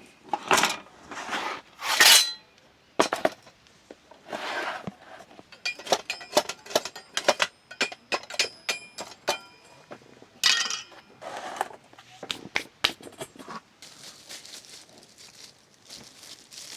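Dishes and metal utensils clinking and clattering: a run of sharp knocks, some with a brief ringing tone, after a few seconds of rustling and scraping. Near the end the knocks give way to a soft steady hiss.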